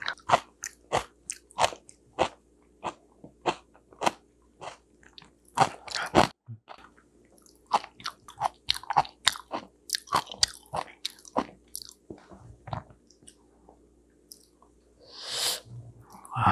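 Close-miked eating sounds: a person chewing and biting food, a run of short smacks and clicks that thins out after about thirteen seconds, with a breath out near the end.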